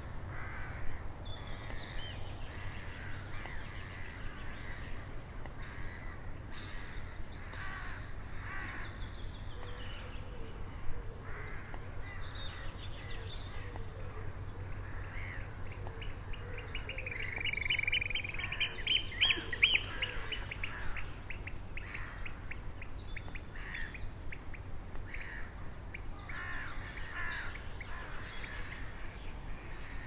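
Wild birds calling over a lake: scattered short chirps and harsher calls throughout, with a quick run of rapid calls a little past halfway.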